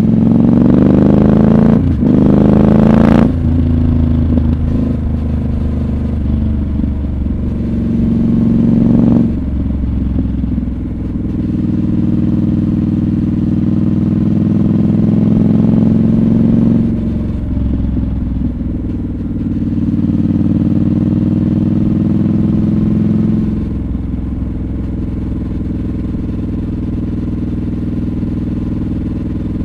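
Triumph Scrambler 1200 XC's 1200 cc parallel-twin engine pulling on the road. Its note rises and drops back in pitch several times, then settles lower and steadier for the last few seconds.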